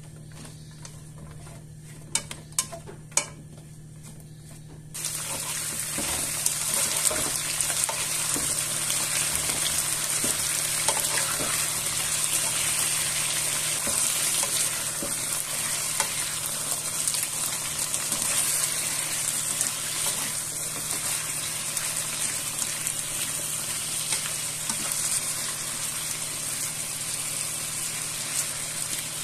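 Sliced potatoes frying in oil in a nonstick skillet, with a steady sizzle and small crackles that start suddenly about five seconds in while a plastic slotted spatula turns them. Before that come a few light taps.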